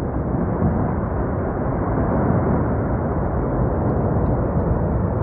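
An approaching avalanche gives a loud, steady rumble, picked up on a phone microphone. It swells at the start and then holds.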